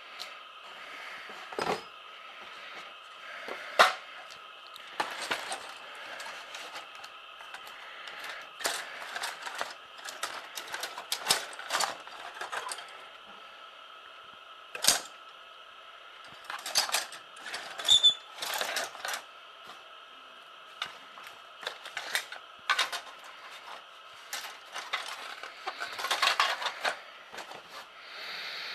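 Irregular clicks, taps and short rustles of small objects being handled, some sharper knocks among them, over a faint steady high hum.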